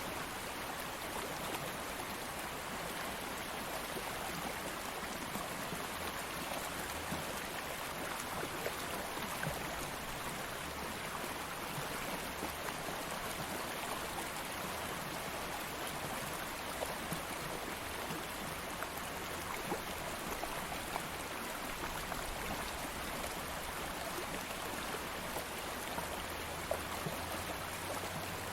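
A shallow stream flowing steadily, an even rushing of water with small splashes and trickles scattered through it.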